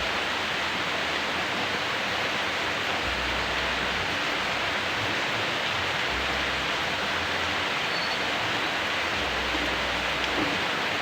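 Steady rain falling, an even hiss with no letup. A low rumble comes and goes a few times underneath.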